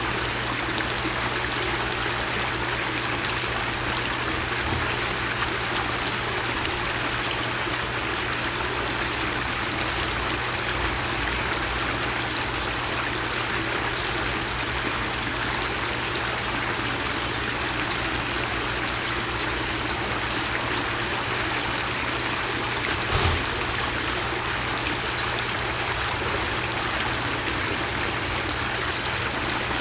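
Steady rushing noise like running water, even throughout, with one brief low thump about 23 seconds in.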